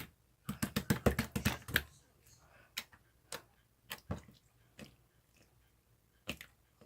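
A quick run of sharp clicks for about a second, then single clicks spaced out every second or so.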